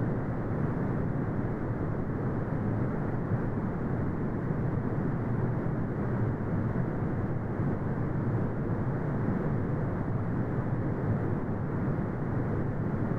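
Brown noise: a steady, deep rumbling hiss with most of its energy in the low end and nothing above the upper mids, unchanging throughout.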